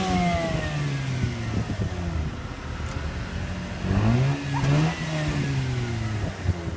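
Mazda RX-8's rebuilt two-rotor Renesis rotary engine revving and dropping back twice: the revs fall away, climb sharply about four seconds in, then fall again. The rebuilt engine is the one its owner reports as having low compression.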